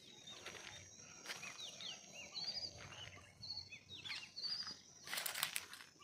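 Small songbirds chirping with many short rising and falling notes and three quick trills, over a steady thin high whine. A short, loud noisy burst comes about five seconds in.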